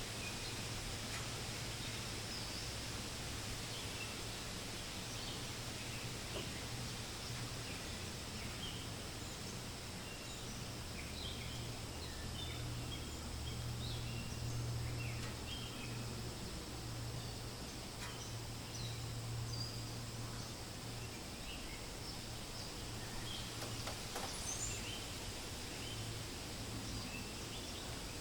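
Forest ambience: a steady hiss of wind through leaves, with many short bird chirps scattered throughout and a low steady hum underneath.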